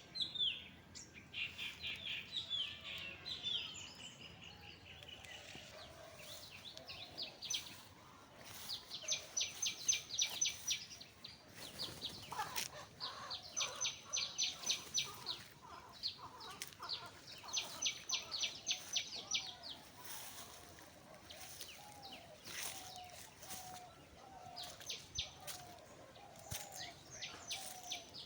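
Birds singing outdoors: high, rapid trills come in bursts of about two seconds, a few seconds apart. In the last third a lower short call repeats about twice a second.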